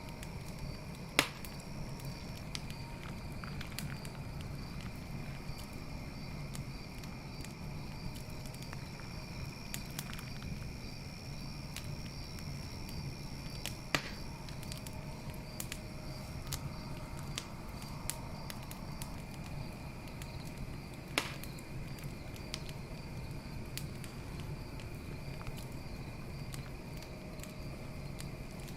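Campfire burning with scattered small crackles and three sharp pops, over steady high chirping of night insects such as crickets.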